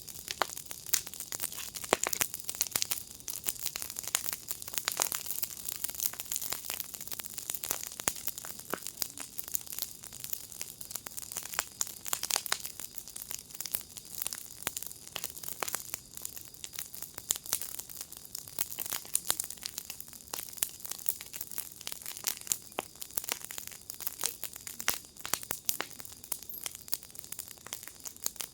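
Wood fire in a firepit crackling steadily, dense irregular pops and snaps over a soft high hiss.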